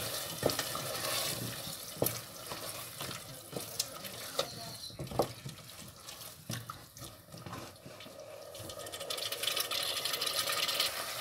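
Potato pieces frying in oil in a stainless steel pot with a steady sizzle, while a wooden spoon stirs them and knocks against the pot now and then. The sizzle grows louder near the end.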